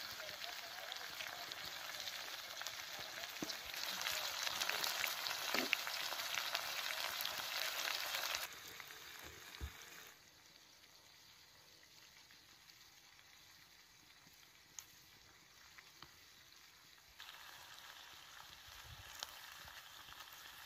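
Goat liver masala sizzling in a black iron kadai, with a slotted spoon stirring it. The sizzle is loud for about the first eight seconds, then drops away sharply and rises again somewhat near the end, with a few light knocks of the spoon.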